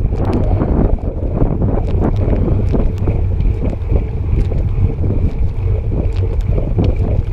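Wind buffeting the microphone: a loud, steady low rumble with faint scattered ticks.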